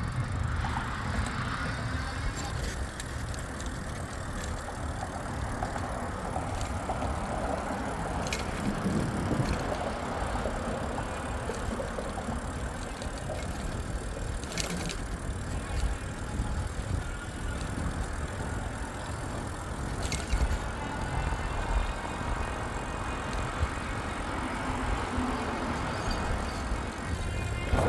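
Riding noise from an e-bike on a paved trail: a steady rumble with the wind and tyre noise of riding, and three sharp clicks along the way.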